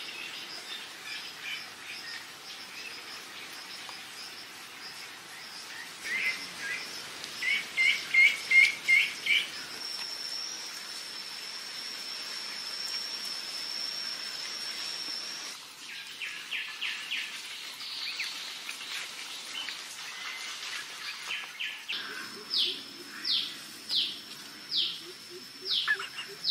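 Forest birds chirping in short repeated notes, with a steady high-pitched drone through the middle. Near the end a bird gives a run of quick falling whistles, a little more than one a second.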